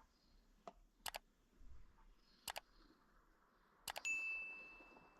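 A few light clicks and knocks from small objects being handled, some in quick pairs, then a metallic ding about four seconds in that rings on and fades over about a second and a half.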